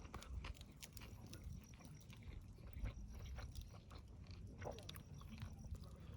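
A person chewing and biting food, faint scattered crunchy clicks and smacks over a low rumble.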